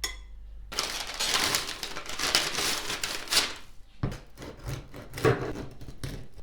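Kitchen food-preparation noises: a click, then about three seconds of rushing noise, then a run of irregular knocks and clatter.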